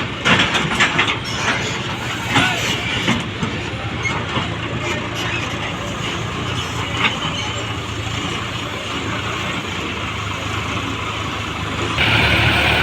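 Tractor diesel engine running steadily under load, hauling a heavy sugarcane trailer, with knocks and rattles in the first few seconds. The engine sound gets louder about a second before the end.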